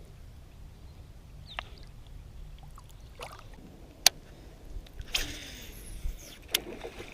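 Small water splashes and knocks on a kayak, with a sharp click about four seconds in and a brief splash a little after five seconds.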